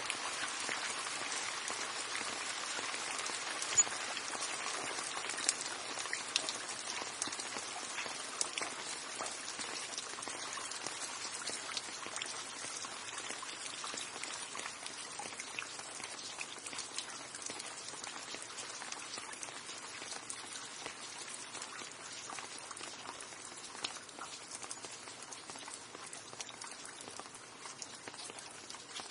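Steady rain with individual drops ticking on a surface, a few louder drop hits in the first few seconds, easing slightly toward the end.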